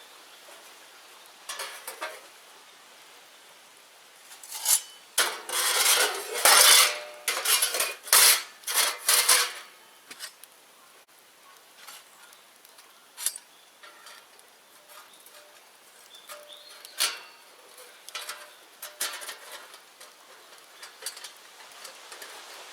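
Hard, hollow clattering and knocking, like dry bamboo pieces being handled and dropped onto each other. There is a dense burst of knocks from about five to nine seconds in, then scattered single knocks.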